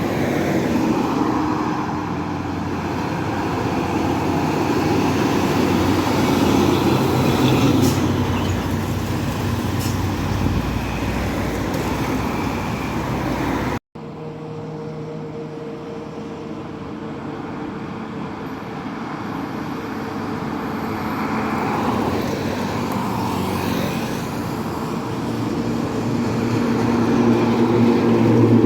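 Heavy road traffic, trucks and buses, passing with engines running. The sound cuts out briefly about halfway through, and near the end another vehicle grows louder as it approaches.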